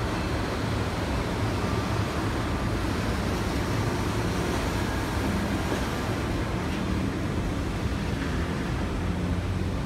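Freight train starting away slowly: the EF65 electric locomotive and loaded container flatcars rolling past on the rails, a steady rumble with a low steady hum under it.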